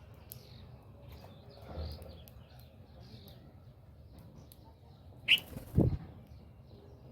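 Birds feeding, with faint, scattered chirps throughout. About five seconds in there is a short, loud flurry followed by a thump.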